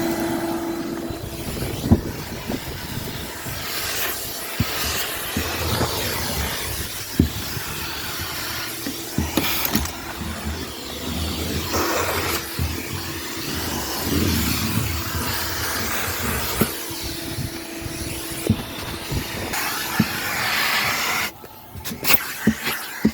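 Numatic Henry cylinder vacuum cleaner running with a steady hum and rush of suction, while its nozzle knocks and picks up bits with scattered clicks and rattles. The motor sound drops away suddenly about 21 seconds in.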